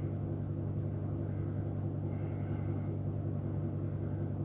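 Steady low hum of an electric heater running, with faint soft swishes of a brush spreading PVA glue.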